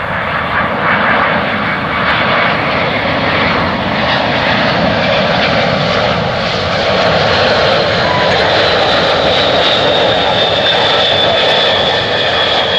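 Boeing 767-300ER jet engines running loud and steady, with a thin high whine that slowly drops in pitch over the last several seconds.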